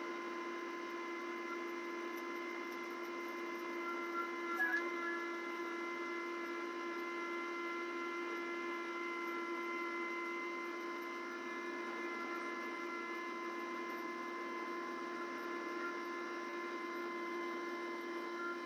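Kubota LX2610 tractor's three-cylinder diesel running steadily with its LX2963 snowblower, a constant even drone. A few faint clicks about four and a half seconds in.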